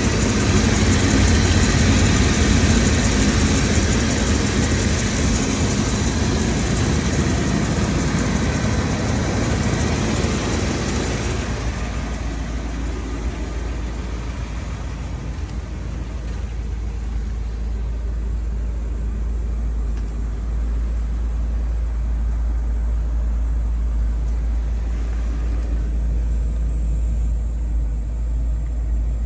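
1994 Chevrolet 30HD van truck's gas engine running at idle. It sounds louder and fuller for the first ten seconds or so, then quieter, leaving mainly a steady low rumble.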